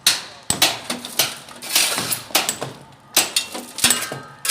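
Metal hand tools striking masonry during demolition work: about a dozen sharp clanks and knocks at uneven intervals, a few ringing briefly.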